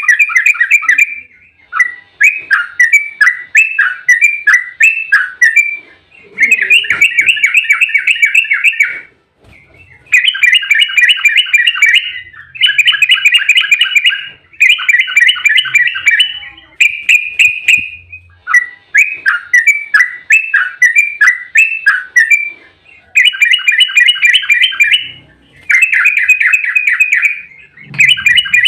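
Yellow-vented bulbul (trucukan) singing in its fast rolling 'ropel' song: about ten bursts of rapid repeated chattering notes, each a second or two long, with short pauses between.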